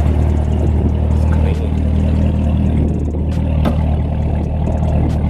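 A car engine idling, a steady low rumble, with a few sharp clicks over it.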